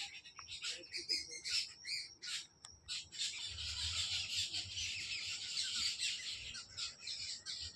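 A flock of birds chirping and squawking in quick, overlapping calls that thicken into a continuous chatter about three seconds in. A low rumble runs underneath through the middle.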